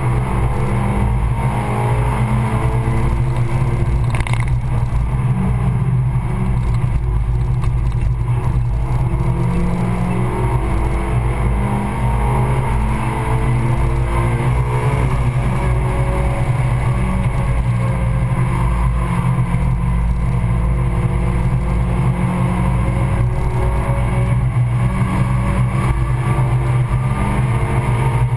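Suzuki Swift Sport Stage 2's tuned four-cylinder engine heard from inside the cabin under hard driving, its pitch climbing and dropping again and again with throttle and gear changes, over steady tyre and road noise. A single sharp knock sounds about four seconds in.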